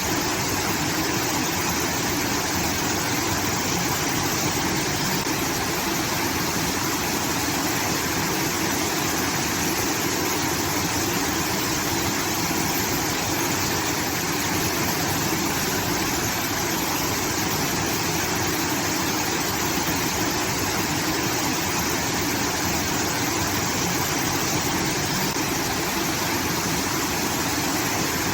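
Water pouring steadily from a rice-field irrigation outlet: a constant, even rush like a small waterfall.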